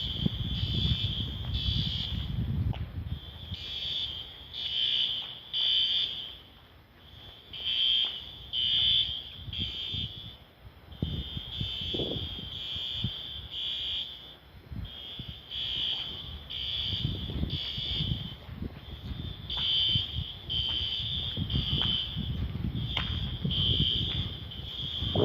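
High-pitched electronic alarm beeping in repeated groups of about three beeps with short pauses between the groups, over intermittent low rumbling noise.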